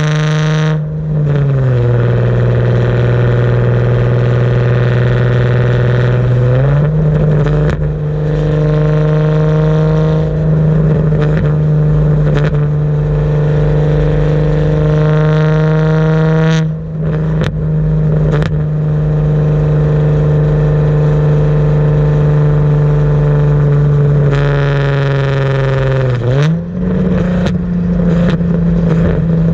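Car exhaust through a Tomei cat-back system, heard up close from the rear: a loud, steady engine drone that drops in pitch about a second in, climbs back a few seconds later, and dips and rises again near the end, with a few sharp clicks and clatters partway through.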